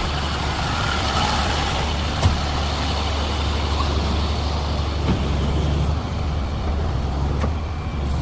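Truck engine running steadily with a low, even hum, and a single sharp click about two seconds in.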